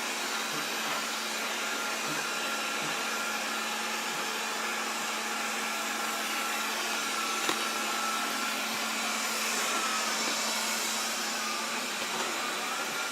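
Proscenic 820S robot vacuum running steadily: an even suction-fan whir with a low hum and a thin high whine. A faint click about seven and a half seconds in.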